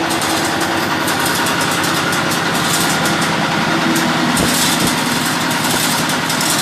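An engine running steadily at idle, with two dull knocks about two-thirds of the way through.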